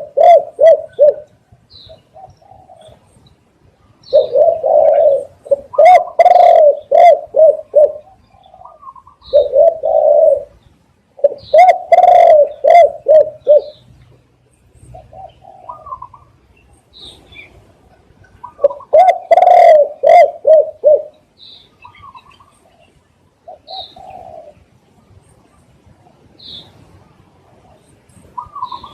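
Spotted dove cooing, giving loud phrases of several quick low coos every few seconds. Faint high chirps of small birds can be heard between the phrases.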